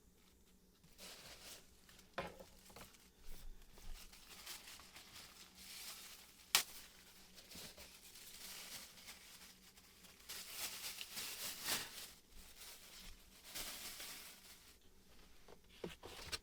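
Intermittent rustling and crinkling handling noise, broken by a few sharp clicks, the sharpest about six and a half seconds in.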